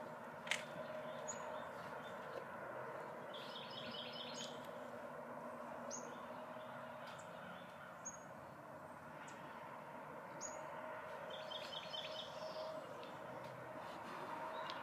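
Small birds chirping, faint: single short high chirps every couple of seconds and two brief trills of quick repeated notes, over a steady low background hum.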